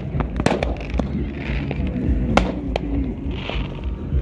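Scattered firework and firecracker bangs: a few sharp cracks at uneven intervals over a steady low rumble.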